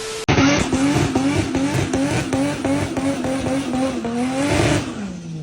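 Car engine revving high, its pitch rising and falling back in quick repeated surges about four times a second, then dropping away near the end.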